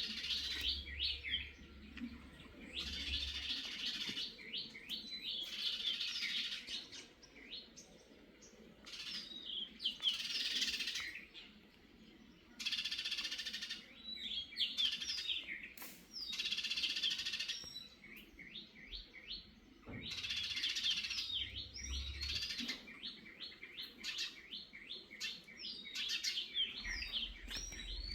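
Small birds chirping in bouts of rapid, short, high calls, with quieter gaps of a second or two between bouts.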